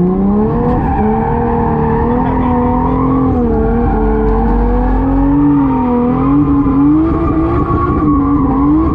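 A 1995 Toyota Soarer's single-turbo 2JZ straight-six driving on at part throttle, the engine note holding fairly steady with small rises and dips in revs.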